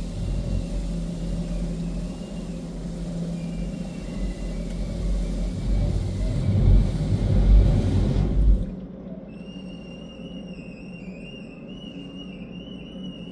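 Istobal M'NEX 22 in-bay automatic car wash running with a loud, steady rumble and rushing noise, which shuts off abruptly about two-thirds of the way through. A thin, wavering high whine is left after it stops.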